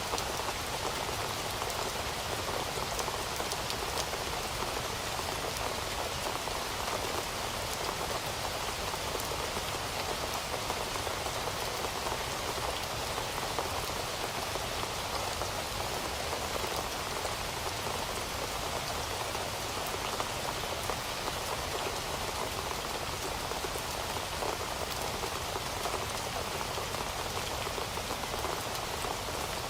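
Heavy rain falling steadily, a dense even hiss of drops with fine pattering ticks, no thunder.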